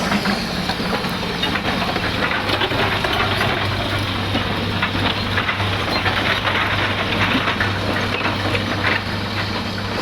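Hitachi Zaxis 200 excavator's diesel engine running steadily, with many short cracks and knocks scattered over it.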